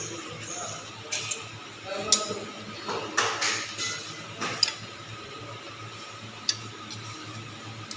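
Metal hand tools clinking and tapping against motorcycle engine parts, a string of sharp clicks and clanks bunched in the first half, then a couple of single taps.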